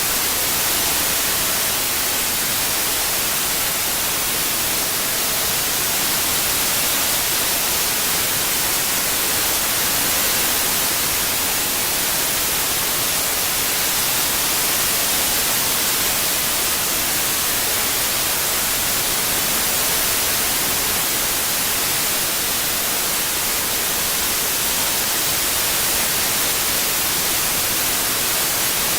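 Steady synthetic white noise, an even hiss strongest in the high frequencies, with no tones or events, played for tinnitus masking.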